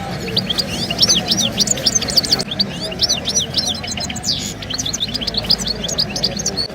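Many small songbirds chirping and singing at once, a dense chorus of quick, high sweeping notes overlapping throughout, over steady low background noise.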